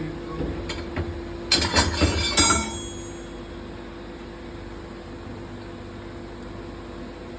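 Metal parts and tools clinking and clattering in a quick cluster for about a second, with a ringing tone, over the steady hum of engine-room machinery.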